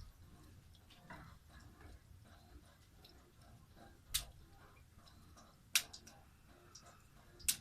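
Small campfire just catching, burning twigs crackling with scattered faint ticks and three sharp pops in the second half.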